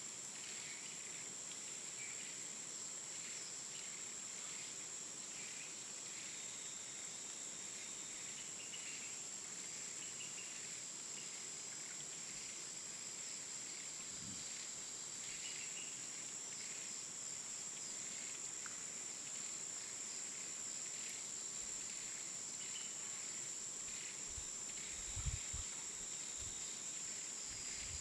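Steady high-pitched insect chorus in woodland, with faint scattered short chirps and a few soft low thumps near the end.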